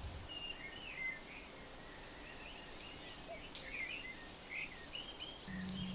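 Faint outdoor birdsong: scattered short chirps and warbling notes over a soft background hiss. A low steady hum comes in near the end.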